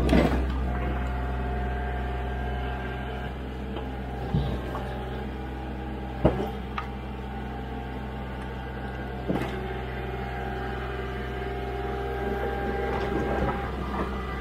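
An engine running steadily, with a few sharp knocks of firewood pieces landing while a tote is loaded.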